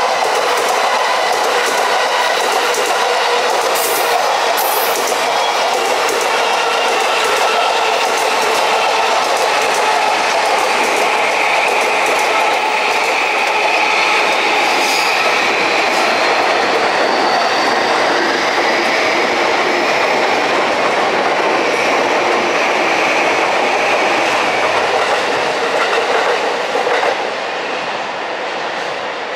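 Electric train running past at close range: steady wheel-on-rail noise with clicks over the rail joints in the first few seconds and a faint rising whine in the middle. It drops somewhat near the end.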